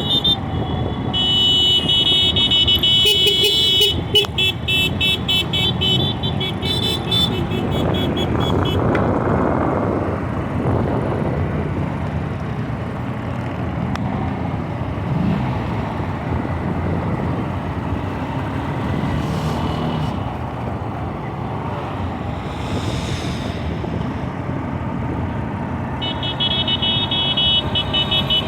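Motor vehicles running on a racetrack, the engine sound swelling and rising in pitch about a third of the way in as one passes. A high, rapidly pulsing horn-like tone sounds for several seconds early on and starts again near the end.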